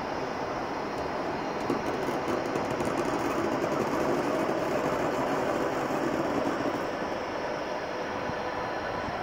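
Steady rumble of a train on the move, with a faint steady whine on top.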